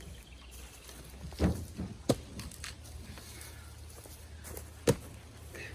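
Pieces of cherry firewood knocking together as they are handled and stacked: a dull thud, then two sharp knocks a few seconds apart, over a low steady hum.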